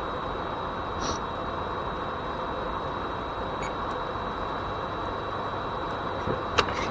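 Steady ambient background hiss picked up by the FPV goggles' built-in microphone, with a thin steady high whine and a couple of faint clicks.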